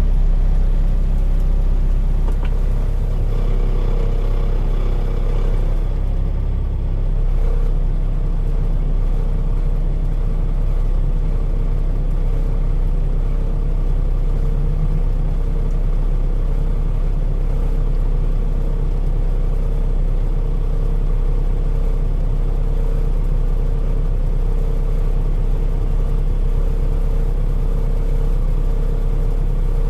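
Truck engine running steadily under way, with a low continuous rumble and road noise heard from inside the cab.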